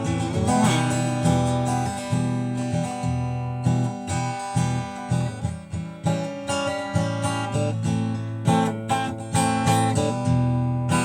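Instrumental music led by strummed acoustic guitar, in a break between sung lines.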